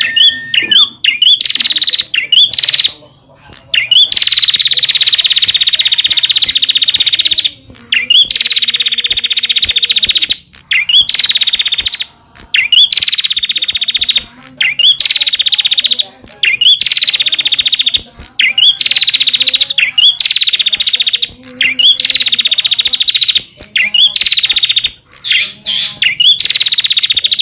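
Prenjak (prinia) calling over and over: a run of loud, fast, buzzy trills, each opening with a short rising note and lasting a couple of seconds, with brief pauses between, the kind of call used as a lure and tutor song for the bird.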